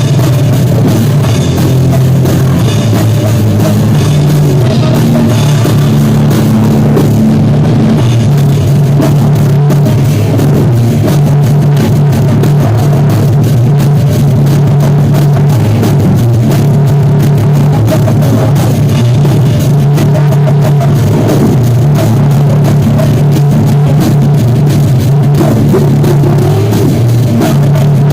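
Live band playing a rock-style song at rehearsal, with a drum kit keeping a steady beat under bass and guitar; loud throughout, the recording overloaded and muddy.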